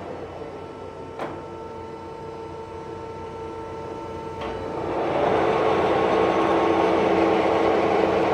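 Summit 34"x120" gap bed engine lathe running under power with its threading feed engaged: a steady gear whine with a sharp click about a second in and another near the middle. About five seconds in, the running grows louder and rougher.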